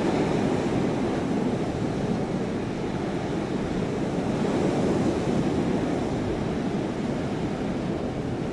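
Blizzard wind blowing hard, a steady low rushing that swells and eases slightly over a few seconds.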